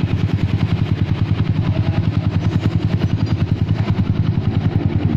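Kawasaki W175's air-cooled single-cylinder engine idling steadily through an aftermarket racing exhaust, an even, rapid thudding of about eight or nine pulses a second.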